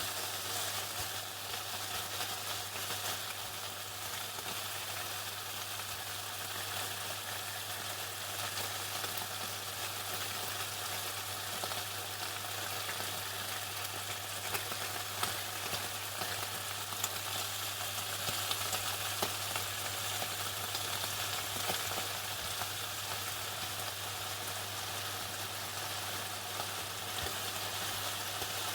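Chicken deep-frying in hot oil: a steady, even sizzle with scattered small pops and crackles, over a steady low hum.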